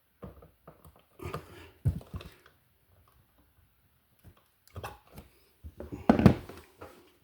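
Irregular clicks, knocks and rattles from a wall receptacle and hand tools being handled at close range, in a few short bursts with the loudest knocks about two seconds in and near the end.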